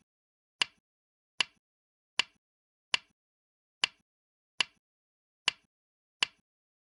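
Go stones being placed on a board, one click per move as the game record plays back. There is a sharp click about every 0.8 seconds, eight in all, and each is followed by a faint second tap.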